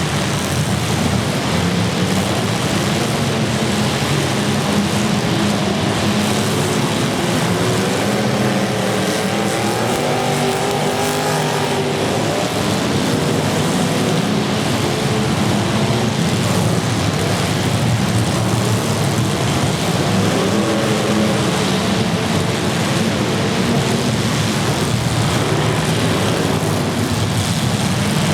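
Demolition derby cars' engines running and revving loudly together, their pitch rising and falling.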